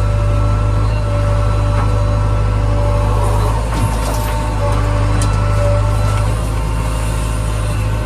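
Heavy diesel engine running steadily with a loud, even low drone, with a brief knock a little before the middle.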